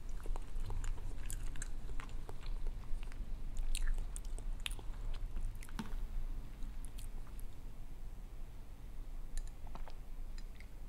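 A person chewing a mouthful of spicy instant noodles close to a lapel mic, with many small wet mouth clicks and smacks. The chewing is busiest in the first half and grows sparser after.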